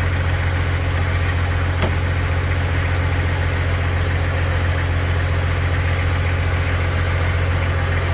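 Engine of a modified off-road 4x4 idling steadily.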